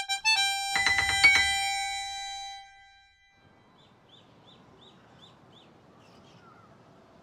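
Cartoon sound effect of bright chiming notes: a few quick dings, then a cluster of bell tones about a second in that ring out and fade over a second or two. After that comes a faint hiss with a short run of tiny high chirps.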